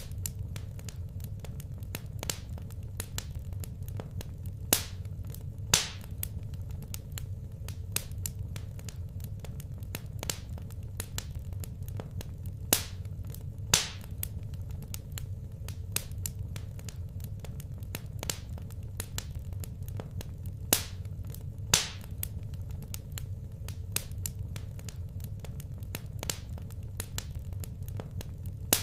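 Wood fire in a fireplace crackling, with scattered small sharp pops and louder pops in pairs about a second apart, recurring roughly every eight seconds, over a low steady rumble.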